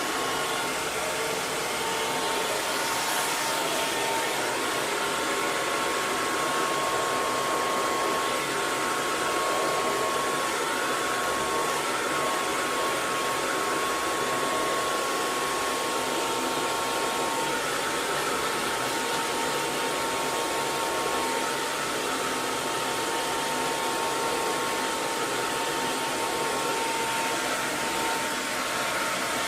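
Hair dryer blowing steadily: an even rush of air with a thin motor whine held at a constant pitch.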